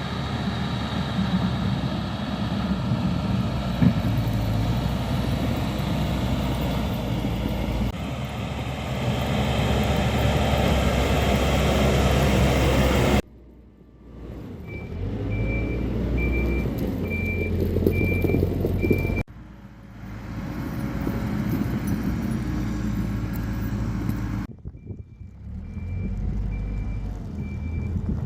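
Diesel engines of heavy snow-clearing vehicles running at work, with a reversing alarm beeping about twice a second in two stretches as a machine backs up. The sound cuts off abruptly between shots.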